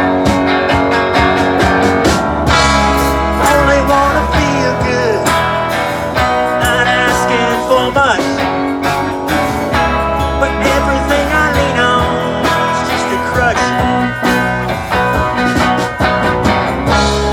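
A live band plays an instrumental break: a lead guitar line with bent notes over bass and a steady drum beat.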